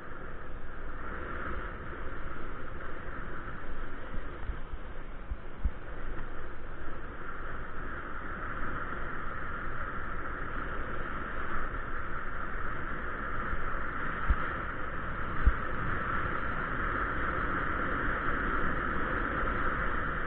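Steady wind and road noise from a moving bicycle, with low rumble and a few dull knocks from bumps in the road. A hiss in the middle range grows stronger in the second half.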